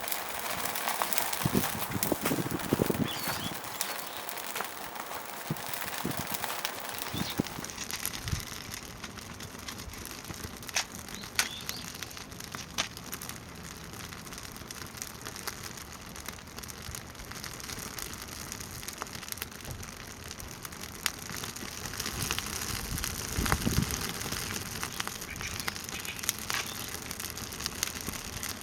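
Small wood fire in a compact fire pit, crackling and popping irregularly over a steady hiss.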